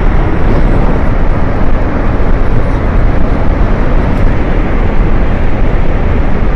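Loud, steady rushing of a glacier-burst flash flood, a torrent of water and debris, with a heavy low rumble and no letup.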